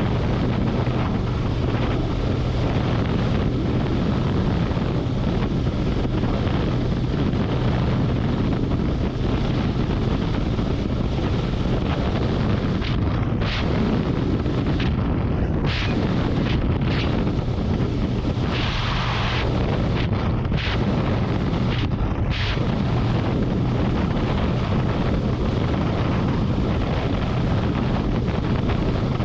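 Harley-Davidson Road Glide's V-twin engine running steadily at highway speed, with wind buffeting the microphone. A few brief louder rushes come in the middle, the longest about two-thirds of the way through.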